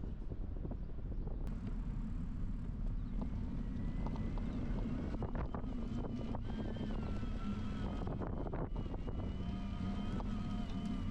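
Wind buffeting a bicycle-mounted action camera's microphone, over a steady low rumble from riding. From about four seconds in, a thin high whine with several stacked tones wavers steadily above it.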